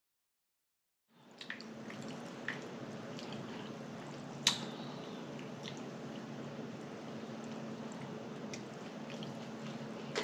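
Steady room hum with a few faint mouth clicks and smacks from eating, and one sharper click about four and a half seconds in. The first second is dead silence.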